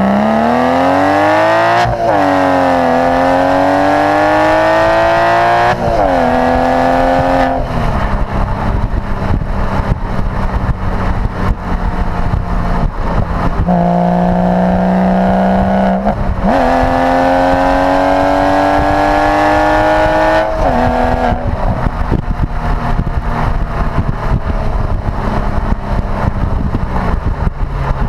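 Porsche Boxster with a performance sports exhaust accelerating through the gears. The engine note climbs and drops sharply at each upshift, with two long pulls, then settles to a steady cruise with road noise.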